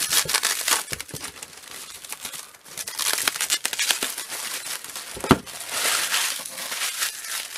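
Plastic packaging crinkling and rustling in irregular bursts as bubble wrap and a plastic comic bag are handled and pulled open, with one sharp click a little past halfway.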